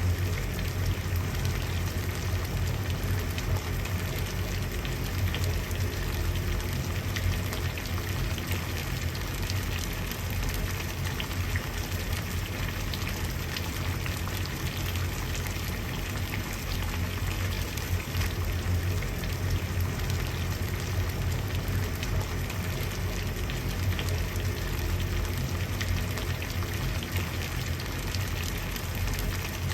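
Water boiling: a steady bubbling with fine crackling over a low rumble.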